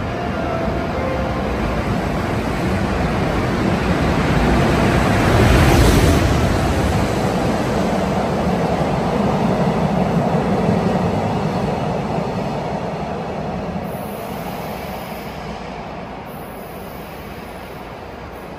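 An EF510 electric locomotive hauling a rail-delivery train of flat wagons, with an unpowered DD200 diesel locomotive in tow, running through the station. The noise builds as it approaches and is loudest as the locomotive passes about six seconds in. The wagons' wheels keep rolling by, and the sound fades away over the last several seconds.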